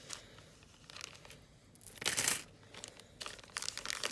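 Plastic bead packets crinkling and rustling as they are handled, with one louder, longer crinkle about two seconds in.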